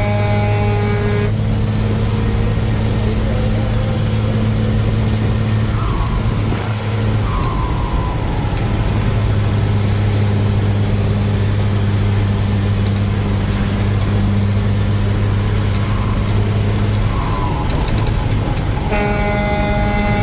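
A vehicle engine, likely the truck's, running steadily with a constant low hum. A sustained horn-like tone sounds for about the first second and comes back near the end.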